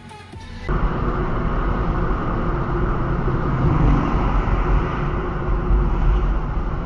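Motor vehicle driving: steady, loud road and engine noise, heaviest in the low end, starting abruptly less than a second in after a brief tail of music.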